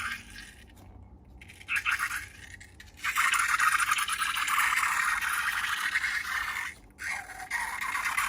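Slime being worked by hand or tool, a dense crackling, scraping sound. It comes in short bursts at first, runs on continuously from about three seconds in, breaks off briefly near seven seconds and resumes.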